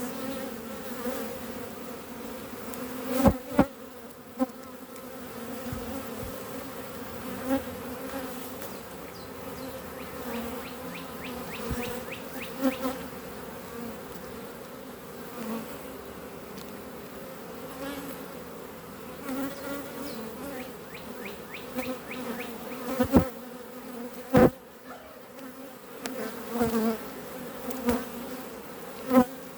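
Disturbed honeybees buzzing steadily around an opened hive, a dense, even hum. A few sharp knocks stand out, a pair about three seconds in and several more near the end.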